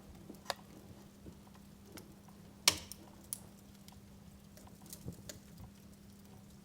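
Wood fire in a fireplace crackling, with scattered sharp pops and one loud pop a little under three seconds in.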